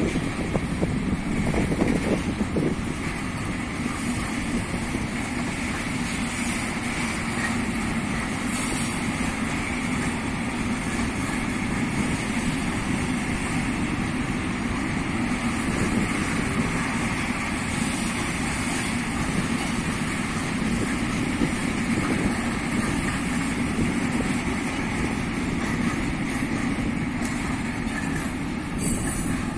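Freight train of open-top wagons rolling past on the rails: a steady rumble and rattle of wheels and wagon bodies.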